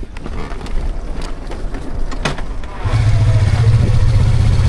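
Yamaha R25 motorcycle being push-started with its electrics dead: a few seconds of rolling noise with some clicks, then about three seconds in its 249 cc parallel-twin engine catches and runs steadily at a low hum.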